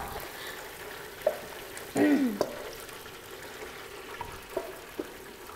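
Chicken wings sizzling steadily in hot oil in a fryer basket on their second fry, with a few light clicks. A short vocal sound from a person comes about two seconds in.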